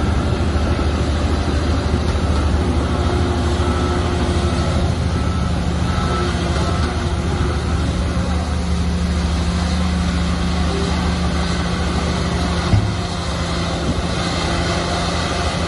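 Heavy diesel engine of earthmoving machinery running steadily with a deep, even drone. There is a brief knock about thirteen seconds in and another at the end.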